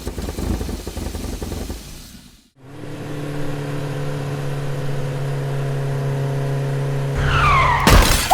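Cartoon sound effects: a rough rumbling noise, then after a brief gap a steady, low engine-like hum from about three seconds in. Near the end come a rumble, falling whistling glides and a loud hit.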